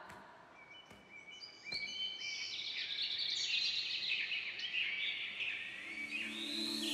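Small birds chirping, many short whistled calls overlapping and growing fuller from about two seconds in. Near the end a low held music note comes in.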